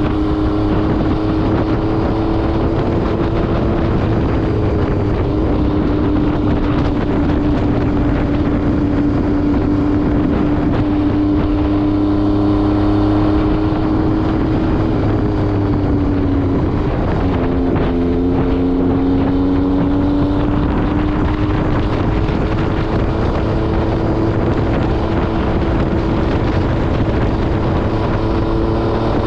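MV Agusta Brutale 800 RR's three-cylinder engine through an SC Project exhaust, running steadily under way with wind buffeting the microphone. The engine note dips sharply about seventeen seconds in, then climbs again.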